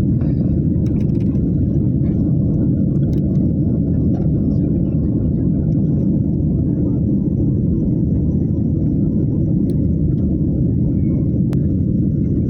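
Passenger airliner cabin noise: a steady low rumble of engines and airflow, with a few faint clicks.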